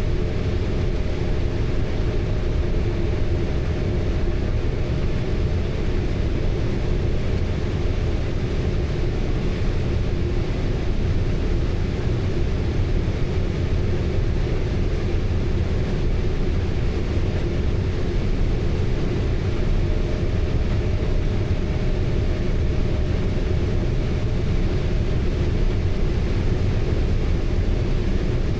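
Steady, unchanging drone of a running harvest-machinery engine, with a constant low hum.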